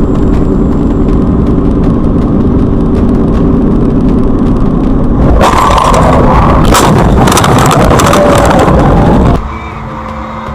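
Car engine and road noise, loud and steady, then about halfway through a harsher stretch of clattering and knocking lasting some four seconds. It drops suddenly to a much quieter low hum near the end.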